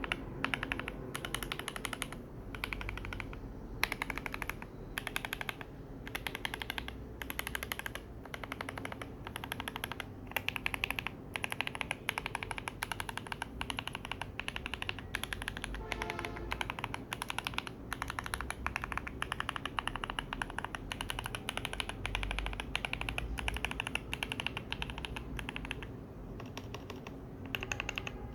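Typing on a Skyloong SK64S 64% mechanical keyboard fitted with a mix of yellow, silver and black key switches: rapid key clicks and clacks in bursts of a second or two, with brief pauses between them.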